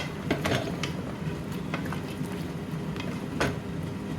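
A metal utensil clinking and tapping against a cooking pot now and then, with louder knocks about half a second in and near the end, over a steady low hum.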